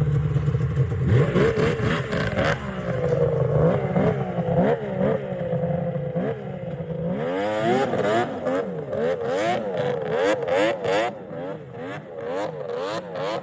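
Yamaha SRX700 snowmobile's two-stroke triple-cylinder engine revving through a triple-pipe exhaust. Early on it is revved and held in longer rising and falling sweeps; from about halfway it is blipped in a quick run of short revs.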